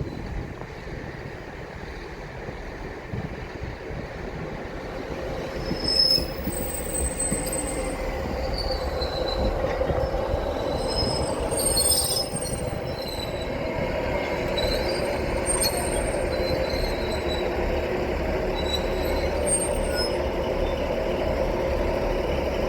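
A train rolling past with a steady rumble, its wheels squealing on the rails in short, high-pitched bursts that come and go from about six seconds in.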